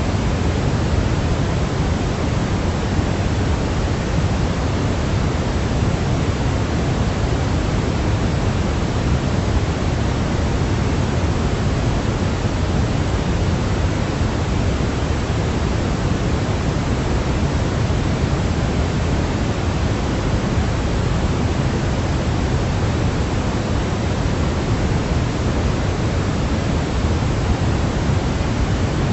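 Steady, unbroken synthetic noise for baby sleep, heavier in the low end than in the highs, like pink noise; it stays constant with no changes.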